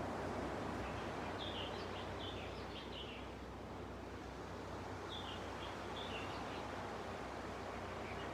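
Gentle ocean waves washing steadily on a beach, swelling and easing slightly, with a small bird giving two bouts of quick high chirps, one about a second in and another about five seconds in.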